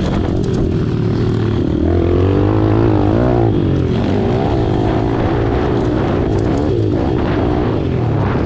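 Pit bike's single-cylinder four-stroke engine running hard on track, its pitch rising and falling with the throttle.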